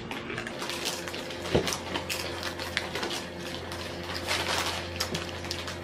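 Crunching and chewing of Flamin' Hot Cheetos: irregular crisp crackles throughout, over a faint steady hum.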